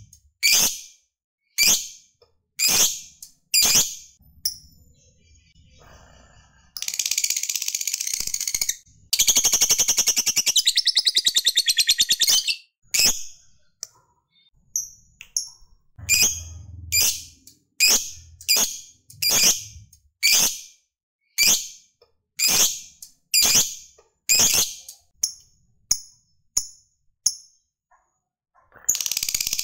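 Lovebird calling: a string of sharp, high single chirps, about one to two a second, broken by a long rapid chattering trill (the 'ngekek') from about seven to twelve seconds in. Another long trill starts near the end.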